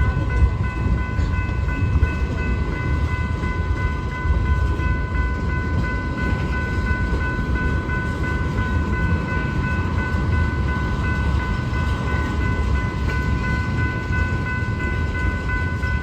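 Freight train rolling by with a steady low rumble of wheels on the rails, and a steady high-pitched whine held over it.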